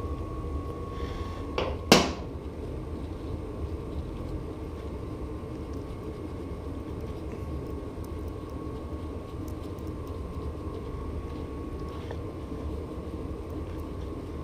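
Two short sharp knocks about half a second apart, nearly two seconds in, then a steady low hum with a faint thin whine above it.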